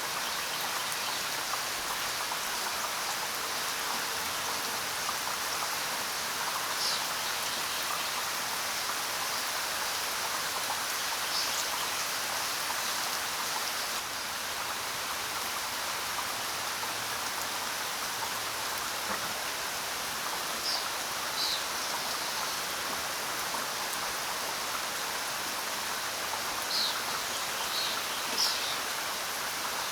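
Steady rain falling, with a few short, high bird chirps now and then, most of them near the end.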